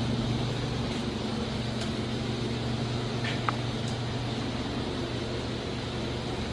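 Steady low mechanical hum with a faint even hiss behind it, broken by a few light clicks.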